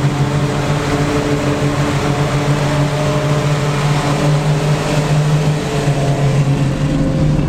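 Automatic car wash heard from inside the car's cabin: a steady hiss of water spraying onto the car over a constant mechanical hum.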